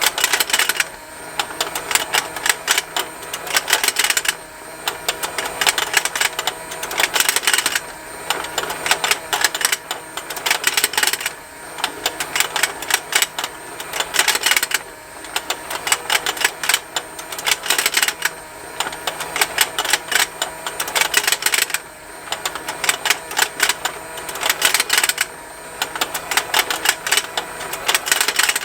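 Motorised plastic fishing-game toy rotating: a rapid, continuous ticking from its motor and gears. About every three and a half seconds it swells into a louder cluster of plastic snapping as the fish snap.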